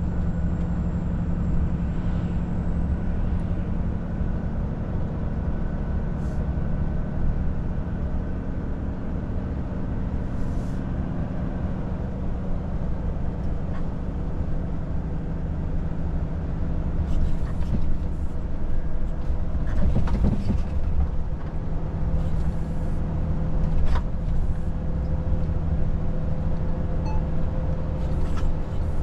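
Volvo FH 500 truck's diesel engine and road noise heard from inside the cab while cruising: a steady low drone with a constant engine tone. A few short clicks and knocks come through now and then.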